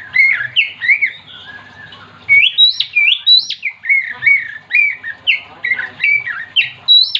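Oriental magpie-robin singing vigorously: a fast run of loud, clear whistled notes, many swooping upward, broken by a short pause about a second and a half in.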